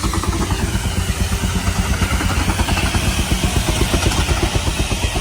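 Engine running steadily with a rapid, even beat of about five or six pulses a second.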